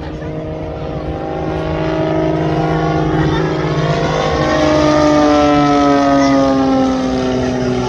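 Airplane flying past: its engine note swells and then drops in pitch in the second half as it goes by.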